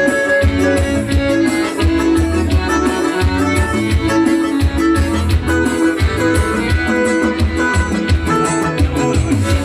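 Forró band playing an instrumental passage: a plucked-string lead melody over a steady low drum beat.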